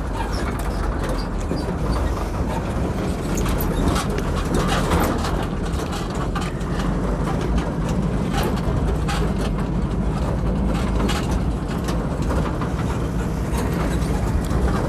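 Truck driving on a rough dirt road: steady low engine and road rumble with frequent short rattles and knocks from the truck's body.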